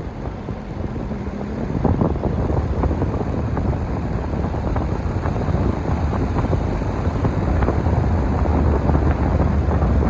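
Wind buffeting the microphone: a loud, low, rumbling noise that grows louder about two seconds in and stays strong.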